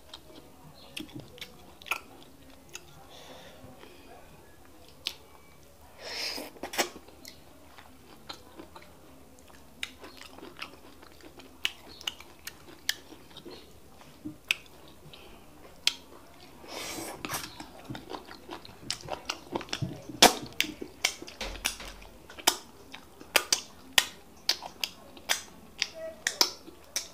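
Close-up mouth sounds of people eating fufu and bitter leaf soup by hand: wet chewing with many sharp lip smacks and clicks, coming thicker in the second half.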